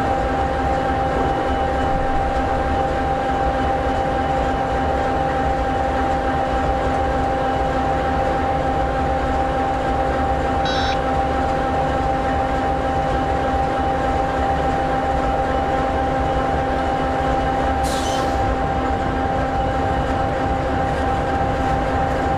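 EMD 16-710G3B turbocharged two-stroke V16 diesel in an SD60E locomotive idling steadily, a low rumble with a constant hum on top.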